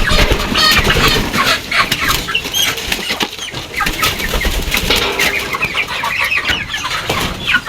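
Chickens clucking and squawking with bursts of wing flapping as they are handled and let loose in a coop.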